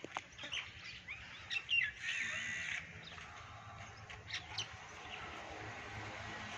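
Birds chirping with short, scattered, high calls, loudest a couple of seconds in, over a faint outdoor background hum.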